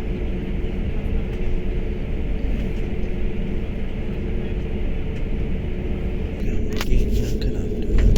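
Airbus A320 cabin noise with the engines running: a steady low rumble with a faint hum. It grows a little louder with a few knocks and rattles near the end.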